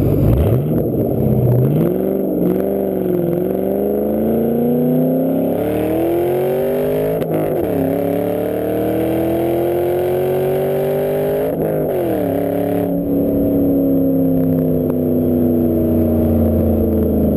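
2010 Ford Mustang GT's 4.6-litre V8 through a Roush Extreme cat-back exhaust, pulling through the gears under way. The engine pitch climbs steadily, drops abruptly at a gear change about seven seconds in, climbs again and shifts again near twelve seconds, then settles into a slowly falling cruise.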